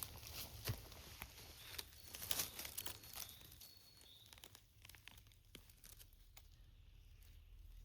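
Faint rustling and crackling of dry forest-floor litter and twigs, with a run of sharp snaps about two to three seconds in.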